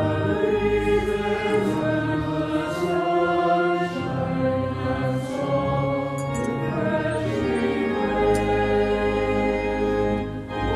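Choral music: a choir singing sustained chords over a held bass line.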